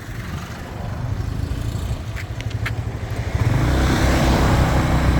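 Motorbike engine running while riding, with wind on the microphone. It gets louder about three and a half seconds in as the bike speeds up, and there are two short ticks just before.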